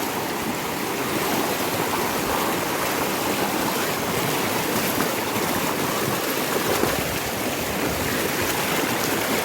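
Steady rush of a river running high and fast after heavy rain.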